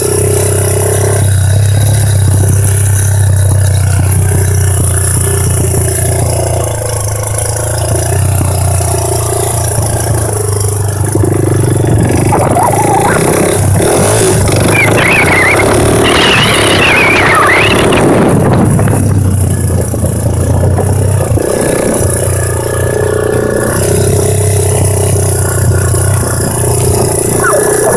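1984 Honda ATC 200X's single-cylinder four-stroke engine running through a DG aftermarket exhaust while being ridden. It holds a steady note, revs up higher for several seconds around the middle, then drops back to the steady note.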